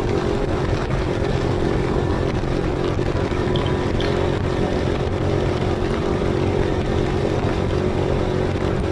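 Off-road motorcycle engine running at a steady speed, with a constant hum and a low rumble.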